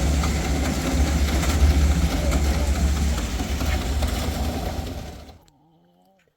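An engine running steadily with a deep hum, fading away about five seconds in.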